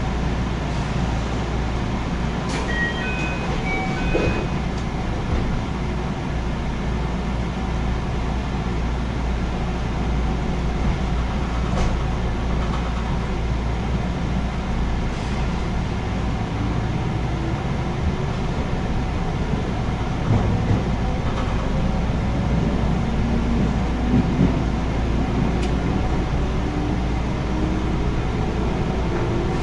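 JR 221 series electric train running, heard from inside the passenger car as a steady rumble of wheels on rail. About three seconds in come a few short high beeps at different pitches. Through the second half a motor whine climbs steadily in pitch as the train gathers speed.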